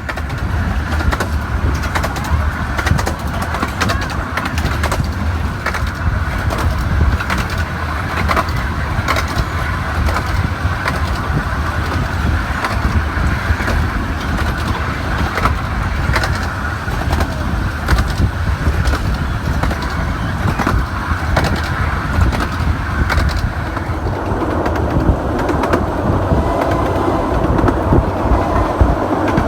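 A 15-inch gauge miniature railway train running, a steady low rumble with many clicks from the wheels on the track.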